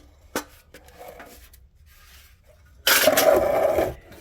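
Metal exhaust parts being handled and fitted: a sharp metallic click just after the start, then about a second of loud metal-on-metal clanking and scraping near the end.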